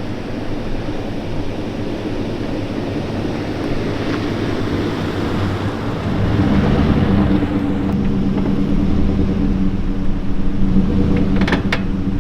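Motor vehicle engine running with a steady hum that grows louder about halfway through. A few sharp clicks come near the end.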